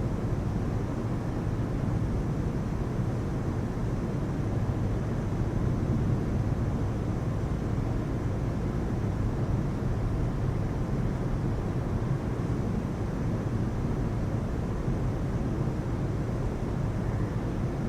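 Steady heavy rain, a low, even rush with no thunderclaps.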